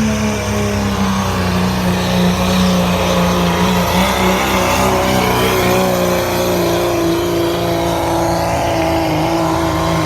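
Pulling vehicle's engine running hard under load down the track, its pitch sinking slowly as it goes.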